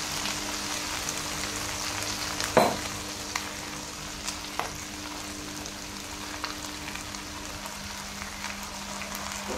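Chicken feet frying in oil in a non-stick pan: a steady sizzle with scattered small pops, a sharp knock about two and a half seconds in, and a low steady hum underneath.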